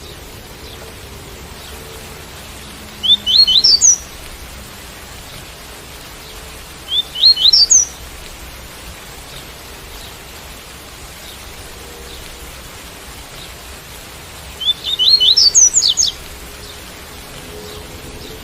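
Double-collared seedeater (coleiro) singing its 'tuí-tuí' song: three short phrases of quick rising notes, each about a second long, over a steady rain sound.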